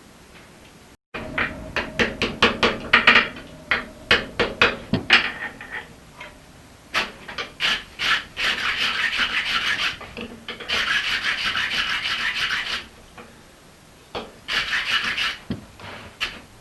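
Scraping on the forged steel axe head in quick back-and-forth strokes: sharp separate strokes for the first few seconds, then several continuous runs of a second or two each.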